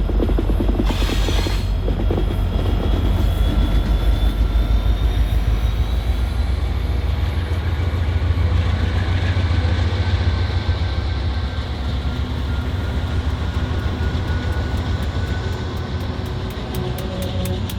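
A diesel freight train rolling by, with a heavy, steady rumble and a thin, high metallic squeal from the wheels drifting in pitch over it.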